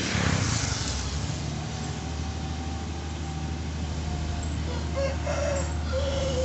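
Mitsubishi Fuso truck's diesel engine idling steadily, with a short burst of hiss in the first second.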